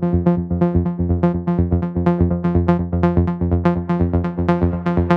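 MAYER EMI Vibes synthesizer playing a pattern of short repeated notes, about three a second, over a held low bass note, getting brighter toward the end.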